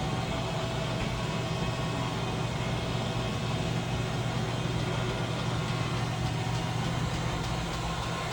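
Steady, low mechanical hum at an even level, without change in pitch.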